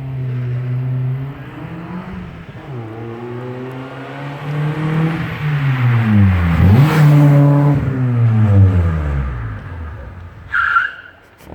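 Exhaust of a 1998 Toyota Paseo's 1.5-litre four-cylinder engine as the revs rise and fall. The pitch holds briefly, then climbs and is loudest around the middle. It dips sharply and picks up again, then falls away. A brief high-pitched squeak comes near the end.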